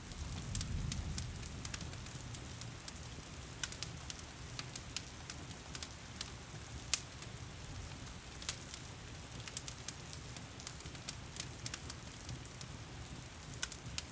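Wood fire in a stone fireplace crackling, with irregular sharp pops and snaps, over the steady hiss of heavy rain. A low rumble is a little louder in the first couple of seconds.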